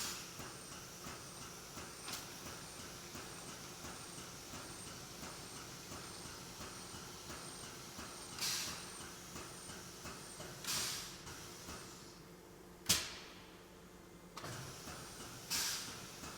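Hydraulic testing machine running: a steady mechanical hum with a faint regular ticking, broken by several short bursts of hissing. A sharp click comes about 13 seconds in, and the hum then drops away.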